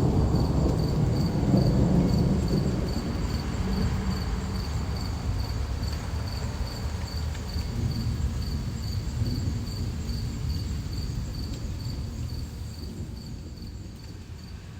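Ambient soundscape: a low, thunder-like rumble dies away under a steady high cricket-like chirp that pulses about twice a second, and the whole fades out near the end.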